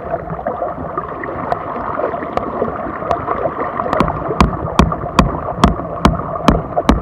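Repeated hard strikes on a car's side window glass that will not break: a few faint knocks early on, then loud regular blows about two or three a second through the second half. Under them is a steady rush of floodwater.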